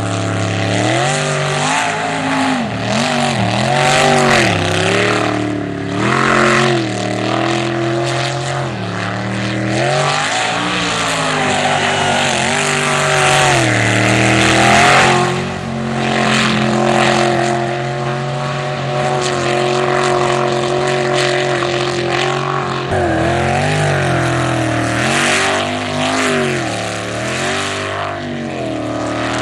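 Sprint jet boat's engine running hard, its pitch rising and falling again and again as the throttle is opened and eased.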